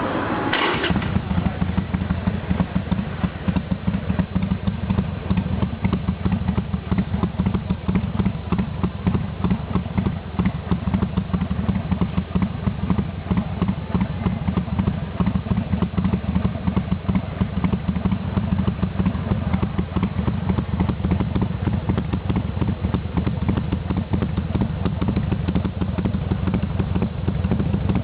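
Harley-Davidson Sportster XL1200L's air-cooled V-twin idling through a Motor Stage aftermarket muffler with a brass tail end, in its standard (STD) setting. It makes a steady, rapid, uneven beat that holds at one speed throughout.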